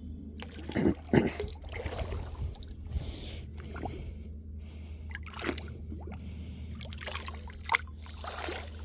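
Creek water splashing and trickling, with a series of sharp splashes as an old bottle is worked loose from the creek bed and handled in the water.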